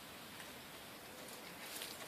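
Kittens moving about, with a few faint small clicks and ticks over a steady background hiss.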